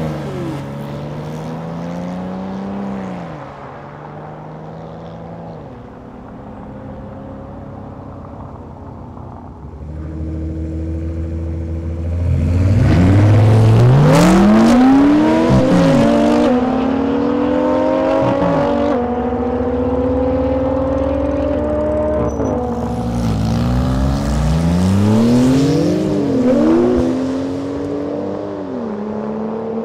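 Performance car engines and exhausts accelerating hard, with the pitch climbing and dropping back at each upshift. There are two loud bursts of acceleration, one near the middle and one near the end, with steadier running between them.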